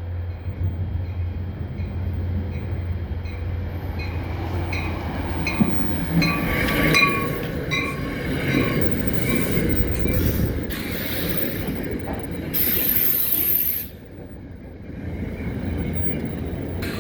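NJ Transit commuter train with Comet passenger cars rolling into a station: wheels click in an even rhythm over rail joints, then squeal as it slows. A high, thin squeal near the end cuts off suddenly and the sound drops.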